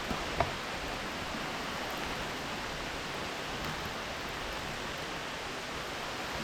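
Steady rushing storm wind in the trees, an even unbroken noise, with one brief click about half a second in.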